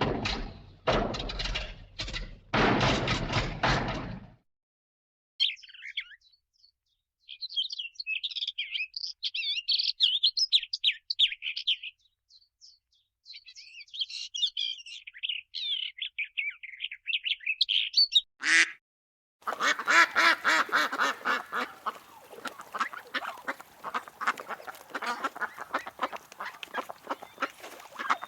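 A few short, loud noisy bursts open, then bluebirds chirp high and quickly for about twelve seconds. After a brief sharp sound, mallard ducks quack continuously.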